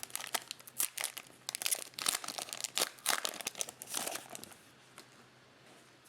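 Foil trading-card pack wrapper crinkling and tearing, heard as a quick flurry of sharp crackles that stops about four and a half seconds in.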